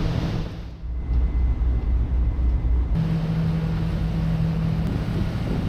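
Car ferry's engines running with a low, steady drone and rumble, and a steady hum for a couple of seconds in the middle.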